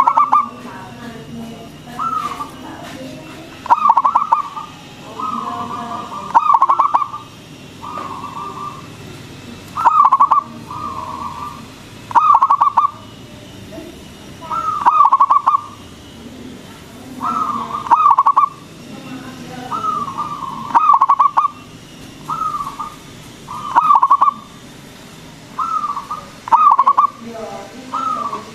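Zebra dove (perkutut) cooing over and over, short bubbling phrases repeated about every one to two seconds.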